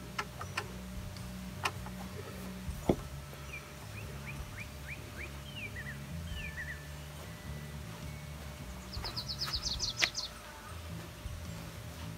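Wild songbirds calling: a run of short chirps, then a fast high trill about nine seconds in, over a low background rumble. A few sharp knocks, the loudest about three seconds in, come through as well.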